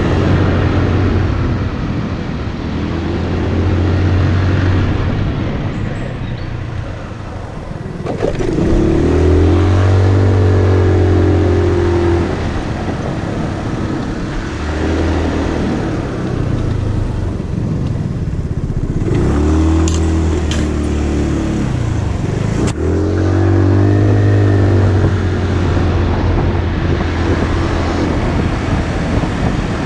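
Motorcycle engine heard from the bike while riding, pulling up in pitch and easing off several times, over a steady rush of wind and road noise. A few sharp clicks come in the second half.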